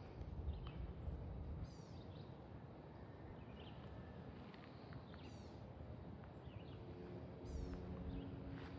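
Wind buffeting the microphone in a low rumble, with small birds giving short chirps every second or so. A faint steady hum comes in near the end.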